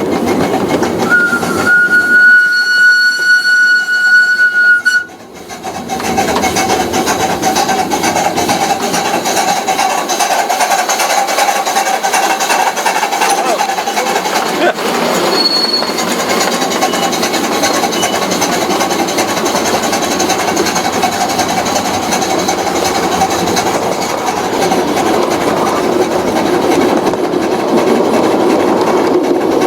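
A train running with a continuous rumble and clatter. Its horn sounds one steady note for about four seconds near the start, then cuts off sharply.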